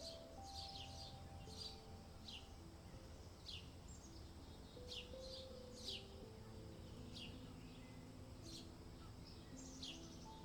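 Faint small-bird chirps, short calls that sweep downward, repeated irregularly about once a second. Under them are soft sustained notes that step from one pitch to another, like gentle background music, and a low steady hum.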